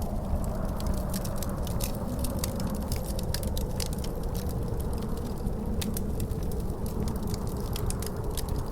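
Wood fire crackling, with many sharp pops and snaps, over a steady low rumble of wind with a faint wavering howl.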